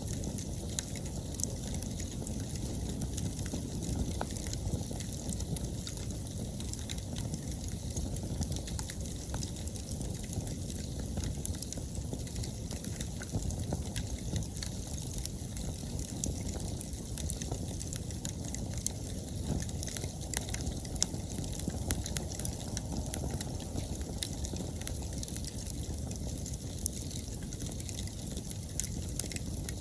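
Wood bonfire burning steadily: frequent sharp crackles and pops from the burning wood over a low, constant rush of flame.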